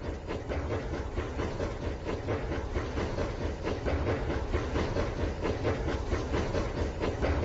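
Rail King battery-powered toy train running on its track: a steady motor hum with a dense, rapid clicking.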